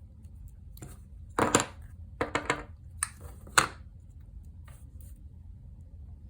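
Craft supplies handled on a desk: a short run of taps and clacks about one and a half seconds in, a few more just after two seconds, and a sharp knock about three and a half seconds in.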